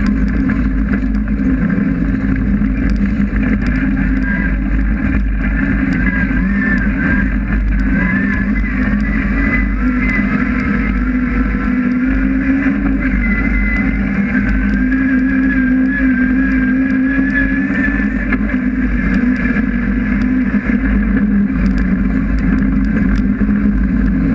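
The Honda S2000's 2.4-litre 16-valve four-cylinder engine is running hard, heard from inside the stripped, roll-caged cabin. It stays steady and loud, with the revs rising and falling a little as the car drives the course.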